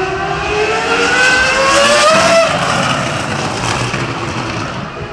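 Porsche 911 race engine accelerating hard, its pitch rising steadily until it breaks off about two and a half seconds in at a gear change, then pulling on in the next gear.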